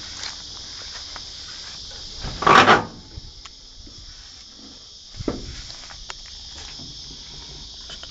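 Steady high-pitched insect chirring, with a loud, noisy half-second scrape about two and a half seconds in, a fainter one a little after five seconds, and a few light clicks.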